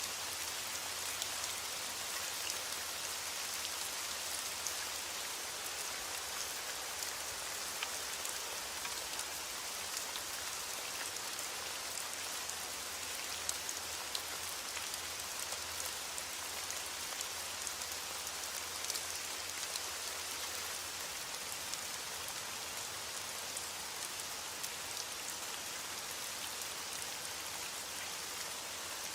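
Steady rain falling on a surface: an even hiss dense with the ticks of single drops.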